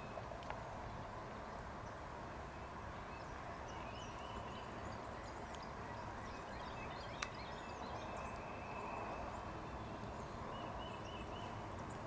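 Outdoor ambience: steady background noise with a bird calling in short runs of chirps, about four seconds in and again near the end, and a single sharp click about seven seconds in.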